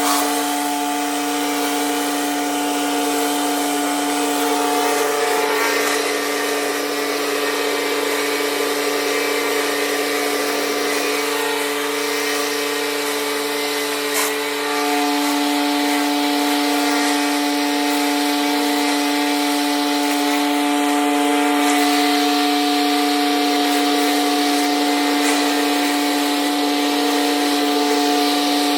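Pressure washer running steadily: a constant machine hum under the hiss of high-pressure water spray, the hum's pitch shifting slightly about halfway through.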